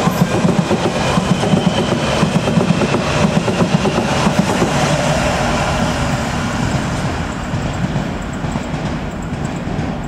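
Electric passenger train running at the station platform, loud and steady at first, then dying away gradually over the last few seconds.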